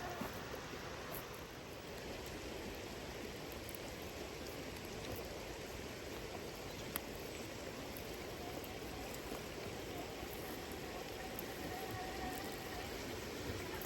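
River water running steadily over stones. A faint steady whine joins in during the last few seconds, and there is a single sharp click about halfway through.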